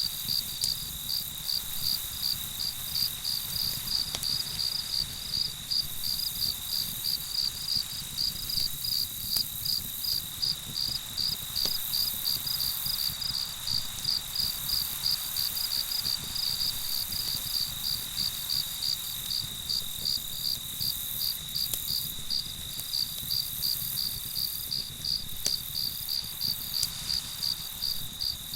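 Crickets chirping in a night chorus: a steady high trill with rhythmic chirps about twice a second over it, above a low steady rumble.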